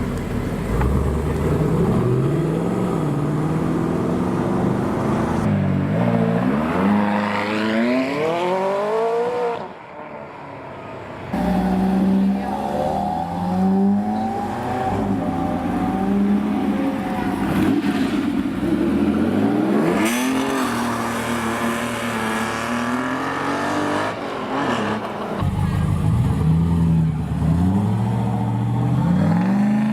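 Supercar engines revving and accelerating hard, their pitch climbing steeply again and again with short drops between gears. The sound changes abruptly about ten seconds in and again near the end, as one car gives way to another.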